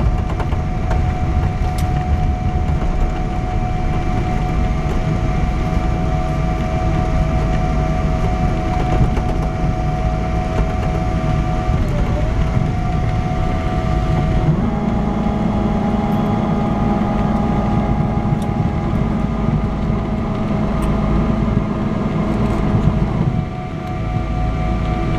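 Boeing 777-200 cabin noise: the jet engines run with steady whining tones over a loud rumble. About 14 seconds in, the engine tones change pitch and a deeper hum joins in, a change in engine power.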